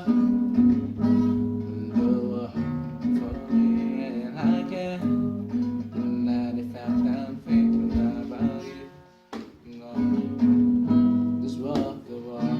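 Acoustic guitar strumming chords as an instrumental passage between sung lines, with a brief break a little over nine seconds in.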